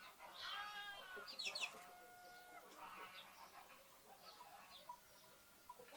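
Faint farmyard animal and bird calls: a short call with a rich, layered tone in the first second, then a few quick high chirps from small birds and a brief held call, with scattered faint chirps afterwards.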